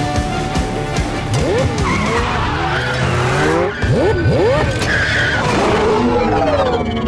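High-speed vehicles in a chase: engines revving and tyres squealing and skidding, with many short rising and falling squeals, over an action music score.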